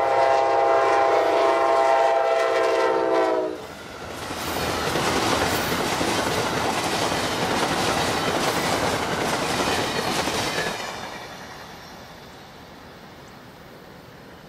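An Amtrak diesel locomotive's horn sounds one long blast that stops about three and a half seconds in. The passenger cars then roll past with wheel clatter on the rails, fading away after about eleven seconds.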